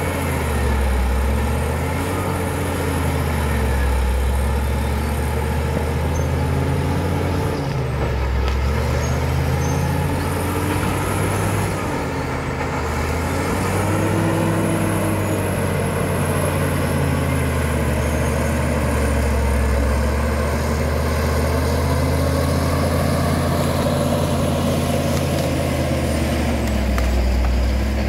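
Caterpillar D7 bulldozer's diesel engine running, its pitch rising and falling over and over as the engine speed changes.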